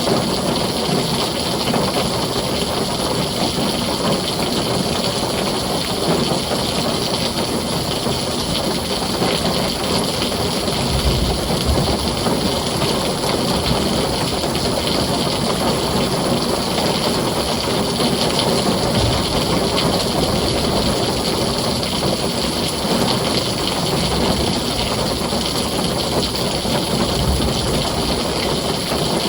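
Heavy rain drumming steadily on a tin roof, a dense, even hiss, with low thunder rumbles a few times.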